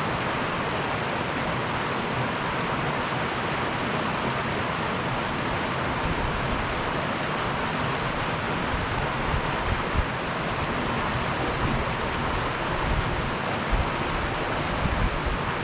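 River water rushing steadily through a canyon, an even hiss of flowing water, with irregular low rumbles coming in from about six seconds in.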